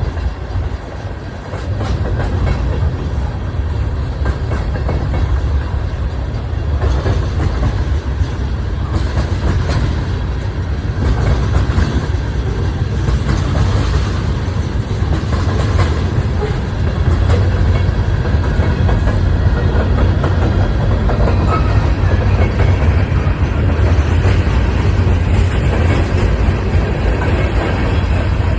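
Huron & Eastern freight train rolling past, a steady low rumble with the wheels clicking over rail joints. It grows louder about two seconds in.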